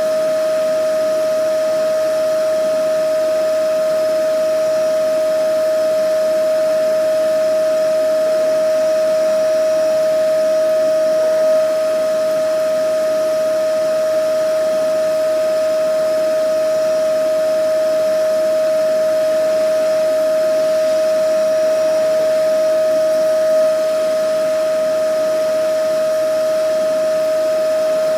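Vacuum cleaner running steadily: a constant whine over an even rush of air, unchanging in pitch and level.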